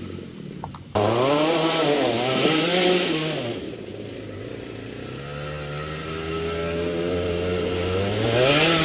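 Yamaha KT100S single-cylinder two-stroke kart engine running, cutting in loudly about a second in. Its pitch rises and falls twice, holds steadier for a few seconds, then climbs again near the end.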